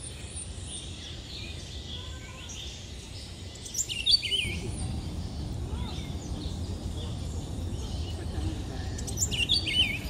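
Birds calling: fainter chirps throughout, with a loud phrase of quick, rapidly rising and falling notes about four seconds in and again near the end, over a low steady rumble.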